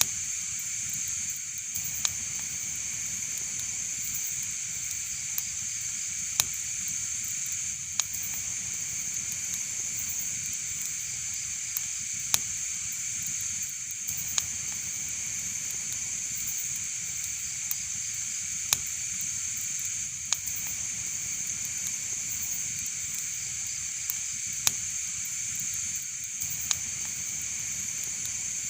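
Fire burning in a fireplace: a steady hiss with sharp crackling pops every second or two, a few of them louder snaps.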